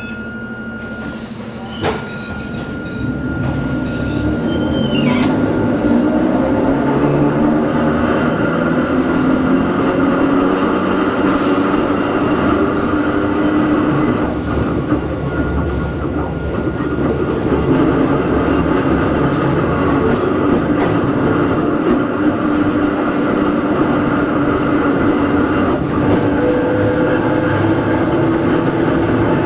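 Running sound inside Hakone Tozan Railway Moha 1 No. 106, with nose-suspended SE121-A traction motors on NA7 bogies. A click about two seconds in and high wheel squeal over the first few seconds. The motor and gear whine then grows louder and rises in pitch as the car gathers speed, dips, and rises again near the end.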